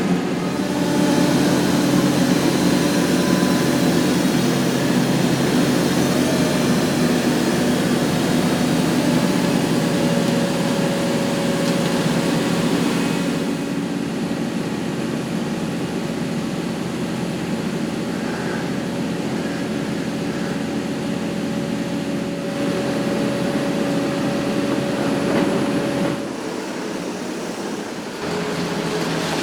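Hitachi ZX870 long-front demolition excavator's engine and hydraulics running steadily under load, with a held hydraulic whine over the drone. The sound drops back somewhat near the end.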